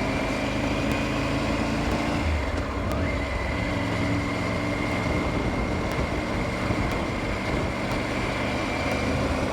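Triumph Tiger 900 GT Pro's three-cylinder engine running steadily while the motorcycle cruises, over wind and road noise. The engine note breaks briefly about two seconds in, then settles again.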